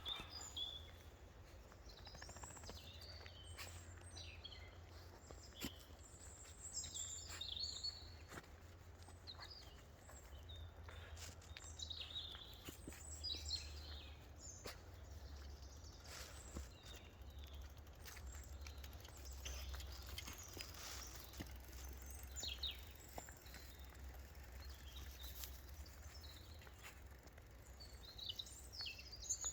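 Wild birds chirping and calling: many short, scattered chirps and trills from several birds, faint. A steady low rumble and occasional clicks lie underneath.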